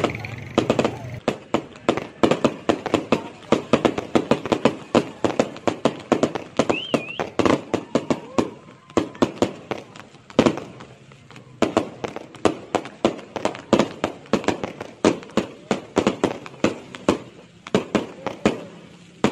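Aerial fireworks going off in a rapid barrage: a dense string of sharp bangs and crackles, several a second. The bangs thin out briefly about halfway, then a single loudest bang about ten seconds in sets them going again.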